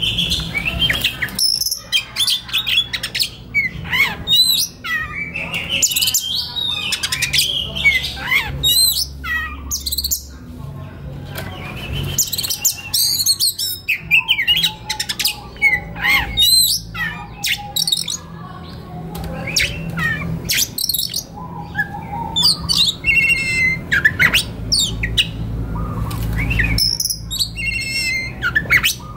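Oriental magpie-robin (kacer) singing a long, varied song of clear whistles, slurred glides and short harsh chattering notes.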